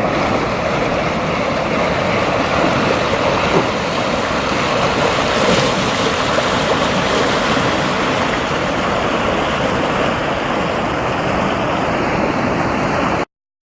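Steady rushing of a swollen river running high with floodwater after typhoon rain. It cuts off suddenly near the end.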